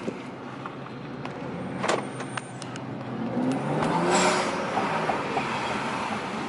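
BMW 335i's turbocharged inline-six running through an exhaust with the mid-muffler deleted, heard while driving. The engine note and level climb to a peak about four seconds in, then ease off, with a sharp click about two seconds in.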